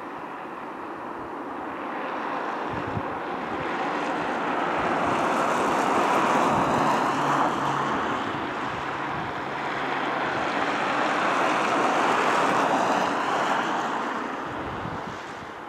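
Distant train approaching on snow-covered track: a steady rushing rumble that swells twice and eases near the end, with a faint low hum through the middle.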